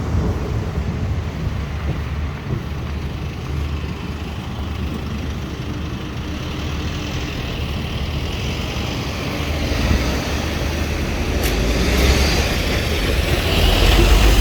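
Steady low rumble of road vehicles at a level crossing, growing louder over the last few seconds.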